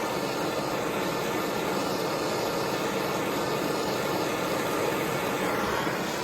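Steady rushing of a gas torch flame heating a carbon-clogged chainsaw muffler screen cherry red to burn the carbon off.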